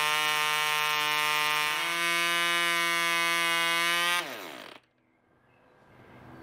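Allen-Mercury AM25 2.5cc model-aircraft diesel engine running flat out with a 9x4 propeller, a steady high-pitched buzz that steps up slightly in pitch about two seconds in. About four seconds in it cuts out and winds down quickly to a stop.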